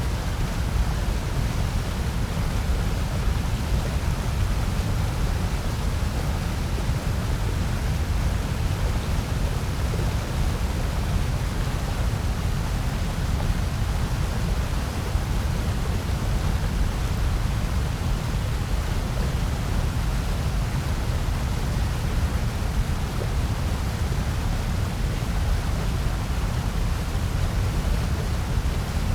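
Steady, unchanging generated noise with no events in it, weighted toward the low end, so it is a deep rush rather than a bright hiss.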